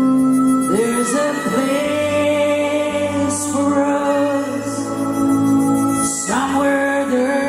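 Live folk band playing an instrumental break, with strummed guitar chords over sustained notes; a new chord is struck near the start and again near the end.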